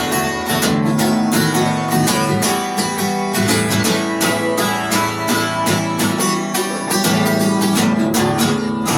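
Acoustic guitar strummed in a steady rhythm, chords ringing, as the instrumental ending of a song.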